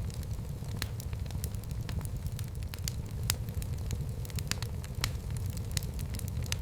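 Wood fire burning in a fireplace, with irregular sharp crackles and pops several times a second over a steady low rumble.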